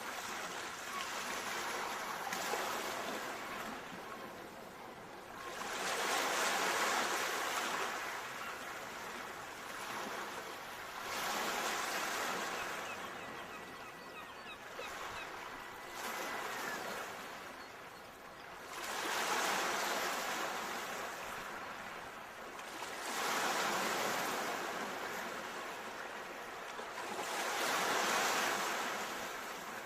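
Ocean surf: waves breaking and washing in, each swelling and fading over a few seconds, with a new surge every four to seven seconds.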